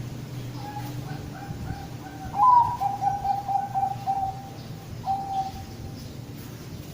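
Zebra dove (Bangkok-type perkutut) cooing its song. A soft note comes first, then a loud opening note about two and a half seconds in, a quick run of rapid pulsed coos, and a final drawn-out coo about five seconds in.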